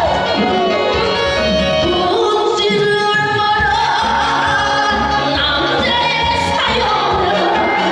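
A woman singing a Korean trot song over loud instrumental accompaniment, her voice gliding between held notes.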